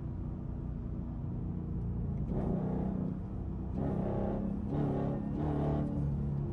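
Straight-piped Dodge Durango exhaust running while driving, swelling several times in the second half as the throttle is pressed.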